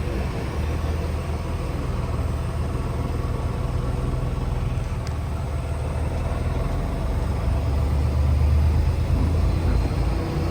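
Semi-truck's diesel engine running, a steady low rumble that grows a little louder about eight to nine seconds in.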